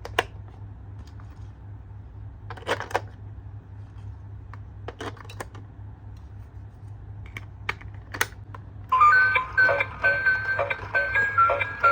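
Scattered light clicks and taps, like small plastic toy parts or packaging being handled. About nine seconds in, a plinky electronic melody with a ticking beat starts up.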